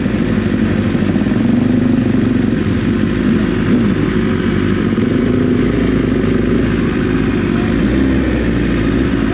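Motorcycle engine running steadily while riding, with a steady rush of wind noise over it.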